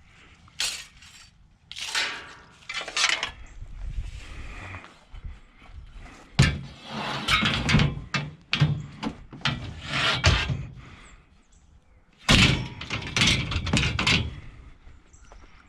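Scrap metal being handled and tossed about: a run of irregular clanks, thunks and scraping, busiest and loudest in the middle and again near the end.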